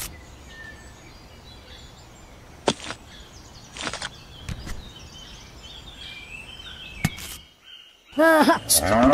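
Quiet background ambience broken by a few short whoosh effects. About eight seconds in, a loud cartoon-style sound effect starts, its pitch swooping up and down in repeated arcs.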